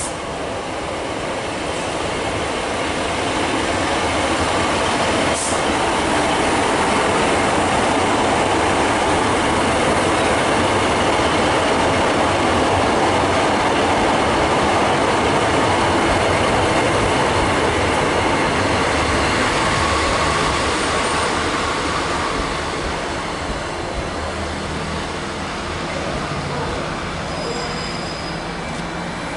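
An Arriva Trains Wales Class 150 Sprinter diesel multiple unit passes close by with a steady rumble of engine and wheels on the rails. The rumble grows over the first few seconds, is loudest through the middle and eases off near the end as the train draws away.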